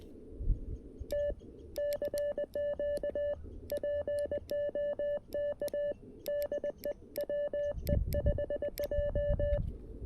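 Morse code (CW) from a CFT-1 QRP transceiver: a single steady mid-pitched tone keyed on and off in dits and dahs for about eight and a half seconds, starting about a second in, with a low rumble under it near the end.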